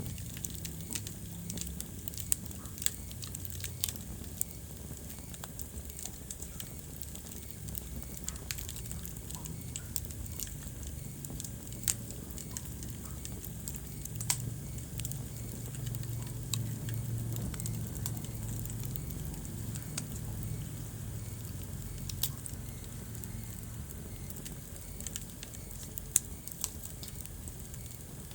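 Wood fire burning in a fireplace: irregular crackling with scattered sharper pops over a steady low rumble of the flames.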